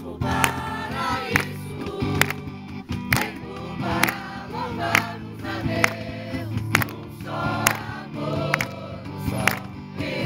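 A group singing a Portuguese worship song together with musical accompaniment, over a steady beat of sharp strikes about once a second.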